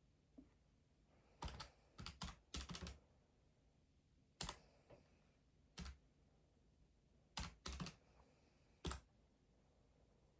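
Sparse key presses at a desk: single taps and short runs of two or three, spread a second or more apart, over a quiet room.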